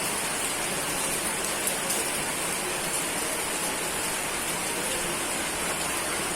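Steady rain falling: an even hiss of rain with a few sharper drop taps.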